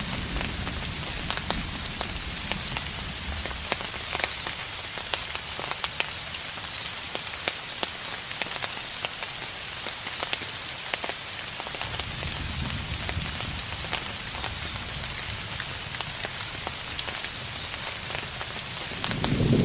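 Steady rain falling, with many sharp individual drop ticks. A low, distant thunder rumble swells briefly about twelve seconds in, and another begins right at the end.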